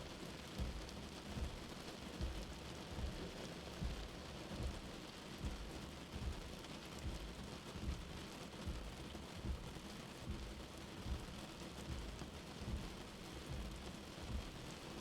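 Steady rain with a low, soft heartbeat thudding evenly underneath, about one beat every 0.8 seconds.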